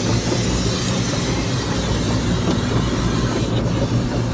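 Automatic car wash running, heard from inside the car: a steady loud rushing noise over a low hum.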